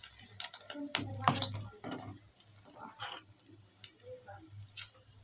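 Fish-roe and gram-flour fritter batter frying in hot mustard oil in a kadai: a crackling sizzle with sharp pops. It is strongest in the first two seconds, then settles to a quieter crackle.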